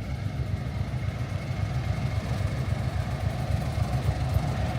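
Heritage diesel train running, a steady low engine rumble.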